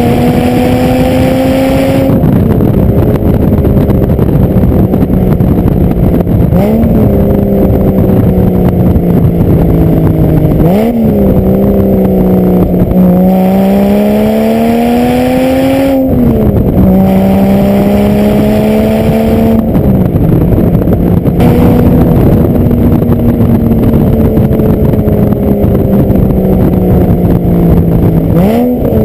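Porsche Boxster S 3.2-litre flat-six through a Stebro race muffler, heard at the rear bumper. Engine speed sags slowly off-throttle, with about five quick throttle blips for heel-toe downshifts and one steady pull up through the revs midway.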